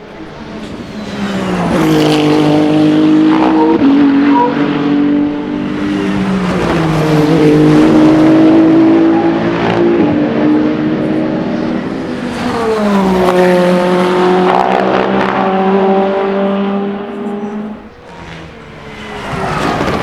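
Endurance race cars passing at speed one after another, three in turn. Each engine note falls in pitch as the car goes by, and the pitch jumps abruptly twice along the way.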